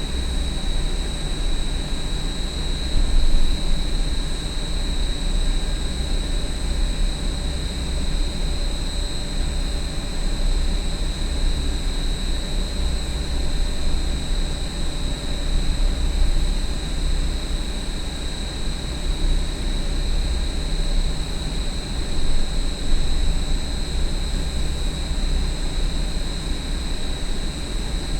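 Huge industrial exhaust fan running steadily, a deep rumble with a constant high-pitched whine over it.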